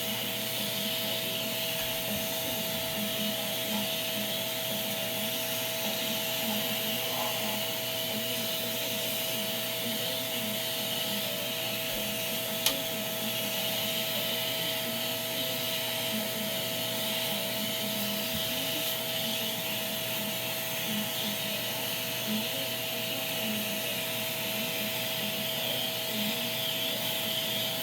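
Shark vacuum cleaner running steadily: a constant motor whine over a hiss of rushing air, with one sharp click about twelve seconds in.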